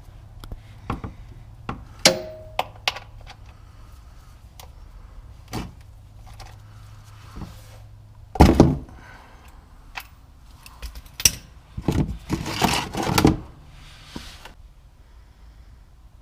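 Hand tools and sockets being handled and set down: scattered metal clicks and knocks, with a louder clatter about eight and a half seconds in and a quick run of knocks a few seconds before the end. A low steady hum stops at the same moment as that louder clatter.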